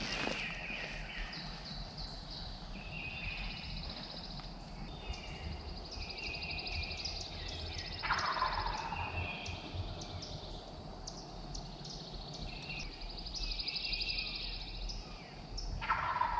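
Wild turkey gobbler gobbling, once about eight seconds in and again near the end, over a steady high trilling.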